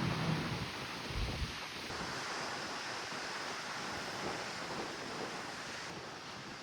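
Steady rush of wind and sea, with wind buffeting the microphone in low rumbling gusts near the start.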